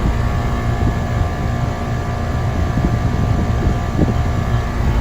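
Outdoor units of 2025 Trane R-454B heat pumps running: a steady mechanical hum from the compressors and condenser fans, with a few steady tones over a low rumble. Wind buffets the microphone at times.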